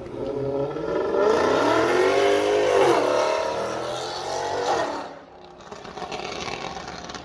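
Mercedes-AMG C63 S V8 accelerating hard away, engine pitch climbing, dropping sharply at an upshift about three seconds in, then climbing again before fading at about five seconds.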